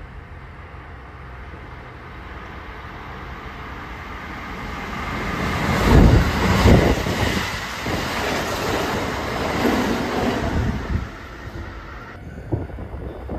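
Kintetsu 1259 series and 2800 series electric train passing through a station at speed without stopping. The rumble grows as it approaches and is loudest about six seconds in as the cars run by, with the wheels clattering over the rail joints. It dies away about eleven seconds in.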